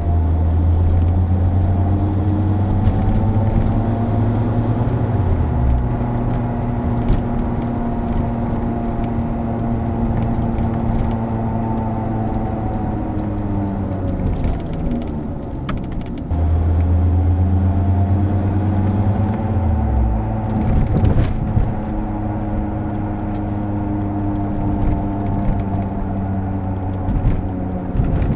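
Car on the move with the rumble of a worn wheel bearing under engine and road noise. The pitch rises as the car gathers speed and falls as it slows, twice over.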